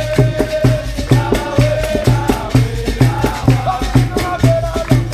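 Capoeira roda music: a steady low drumbeat with shaken rattle and jingle clicks, over held tones that bend in pitch, in the manner of berimbau, caxixi, pandeiro and atabaque.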